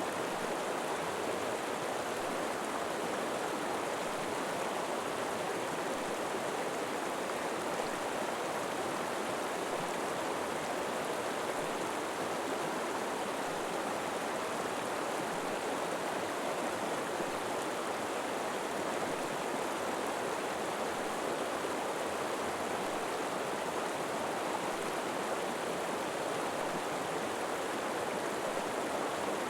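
River water flowing steadily, an even rushing with no change in level.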